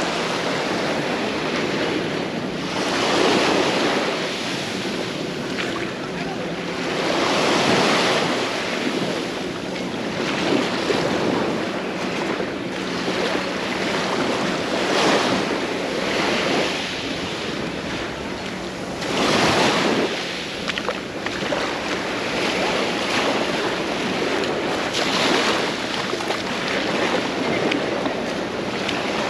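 Small sea waves breaking and washing up the beach, the surf swelling and fading every four to five seconds.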